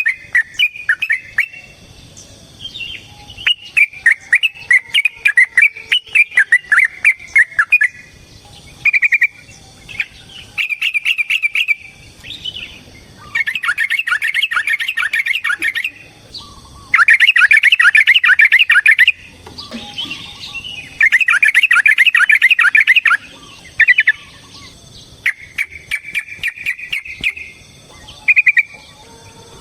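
Yellow-vented bulbul singing loud chattering phrases, several of them long, rapid rattling runs of about two seconds each, with short pauses between.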